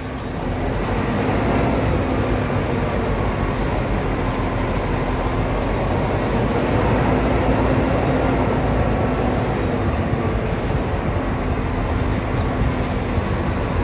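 Semi truck's diesel engine running steadily as the rig is backed up, getting louder about a second in, with a few faint high squeaks.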